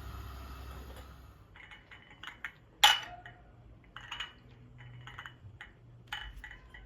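Dishes and kitchen utensils being handled: a series of light clicks and knocks, with one sharp ringing clink about three seconds in. A steady noise fades away over the first second and a half.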